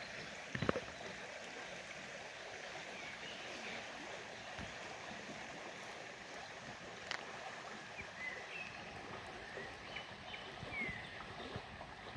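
Steady rushing of flowing stream water, with a few short high chirps about two-thirds of the way through.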